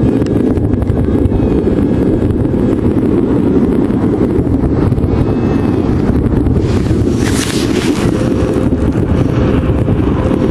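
Wind buffeting the microphone, a loud, steady rumble, with a brief hiss about seven seconds in.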